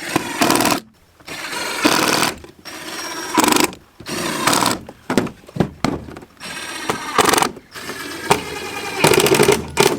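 Power drill driving a decking screw into the wooden hive box, running in a series of short bursts that stop and start as the screw is sunk flush.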